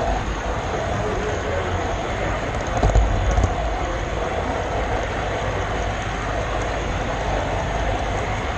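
Model train rolling along the layout's track, picked up by a GoPro camera car riding on the rails: a steady rolling rumble, with a few louder knocks about three seconds in.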